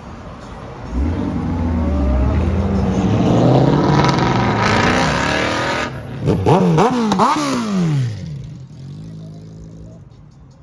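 A car engine accelerating hard, its pitch climbing for several seconds. It is followed by a quick series of about four or five throttle blips, revving up and dropping back, before it settles to a steadier low run.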